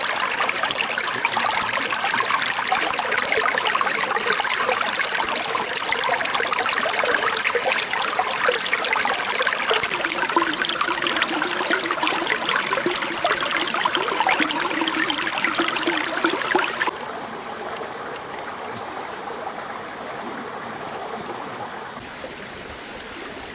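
Stream water flowing and splashing in a steady rush, dropping suddenly to a quieter, duller rush about seventeen seconds in.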